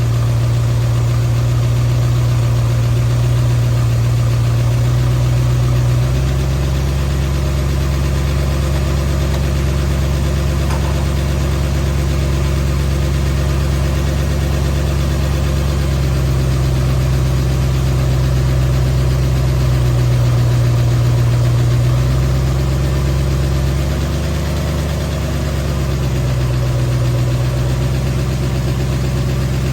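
Ford 351 Windsor V8 idling steadily during its first tune-up after cam break-in. The idle dips and its note shifts briefly about two-thirds of the way through.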